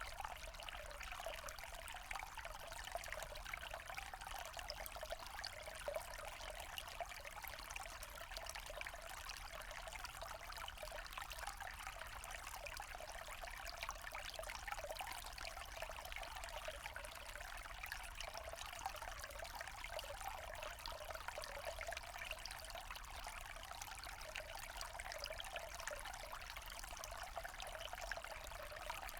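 Forest stream trickling and burbling over stones, a steady flow of water with a fine splashing texture.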